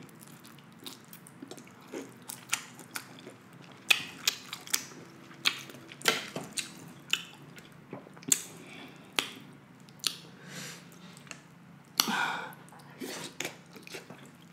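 Close-miked chewing of deshelled seafood in butter sauce: wet mouth sounds and many short, sharp smacks and clicks, with a longer wet sound about twelve seconds in.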